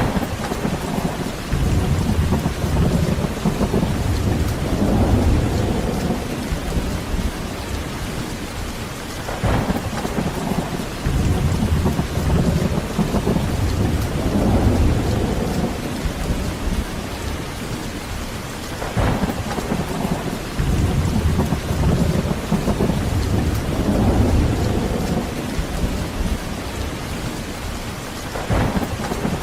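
Heavy rain falling steadily with thunder rumbling in long, deep swells, broken by a sharper thunder crack about every ten seconds, three in all.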